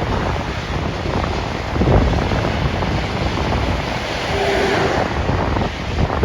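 Wind buffeting the microphone: a loud, gusty rumble. A brief faint tone sounds about four and a half seconds in.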